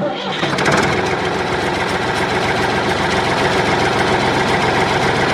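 Engine running steadily with a fast, even chug, cutting in abruptly at full level.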